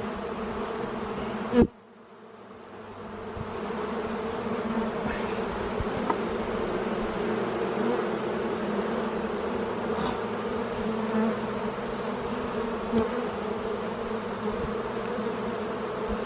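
Honey bees buzzing in a dense, steady hum over an opened hive. A single sharp knock about a second and a half in, after which the buzz dips and swells back up over a couple of seconds.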